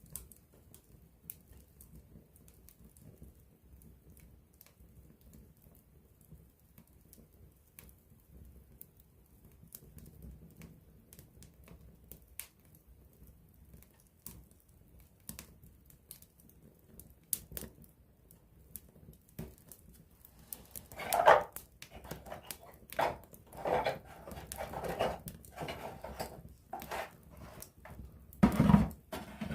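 Wood fire crackling close up, with scattered sharp pops and ticks. About two-thirds of the way in it grows louder, with a run of short, rough rushing bursts a fraction of a second each.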